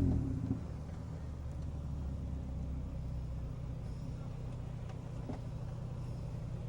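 Race car engine, heard from inside the car, winding down as the driver lets off, its pitch falling. About half a second in it settles to a steady low-rev rumble.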